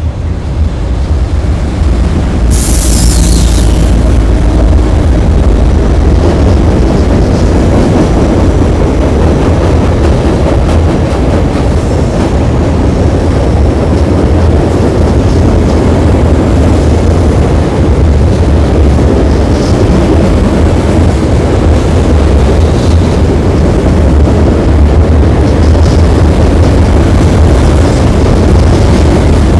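Norfolk Southern freight train rolling across a steel girder bridge overhead: a loud, steady rumble of freight cars and wheels on the bridge deck, with a brief high hiss about three seconds in.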